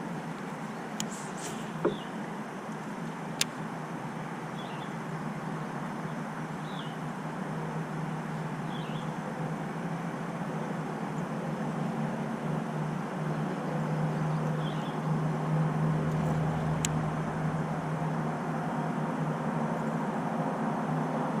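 A steady low mechanical hum that grows louder a little past the middle, with faint high chirps about every two seconds and a few sharp clicks.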